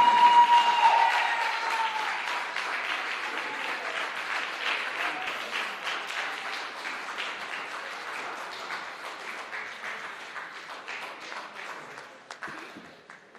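Auditorium audience applauding, with a high voice held over the first two seconds or so. The clapping thins out steadily and dies away just before the end.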